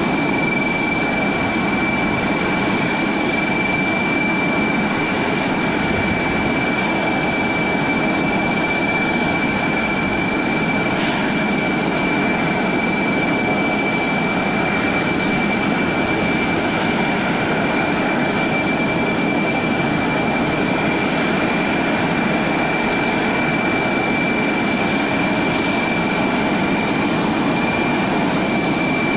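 Jet airliner engines running at a steady pitch: a high, unchanging whine over a broad rush of engine noise.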